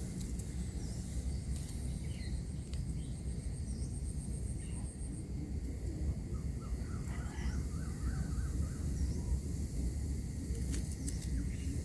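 Garden birds calling: short high chirps scattered throughout, a fast high ticking trill in the first few seconds, and a quick run of calls about seven seconds in, over a steady low rumble.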